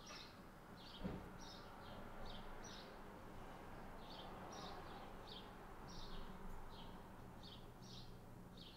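Faint bird chirps, short high calls repeated about twice a second, pausing briefly about three seconds in, over low room noise.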